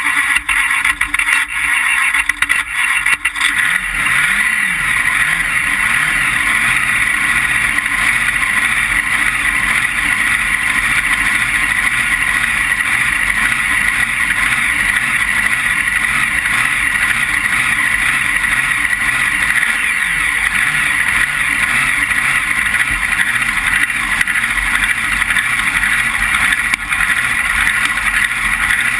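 Front-engine dragster's engine heard from an onboard camera: loud and steady, starting abruptly just before and holding an even level throughout, with a few brief dropouts in the first few seconds.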